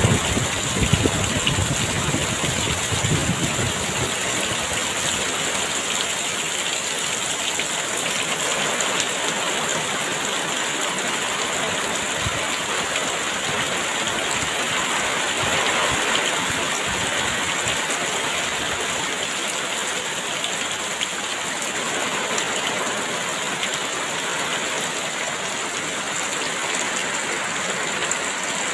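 Heavy rain pouring steadily, with gusts of wind buffeting the microphone in the first few seconds.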